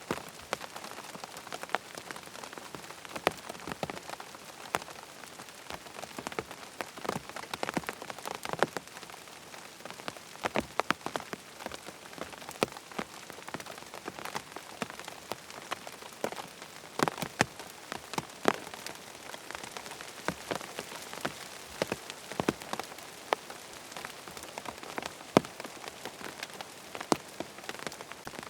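Rain falling on a tent: a steady patter of rain with many louder individual drops striking the fabric at irregular moments.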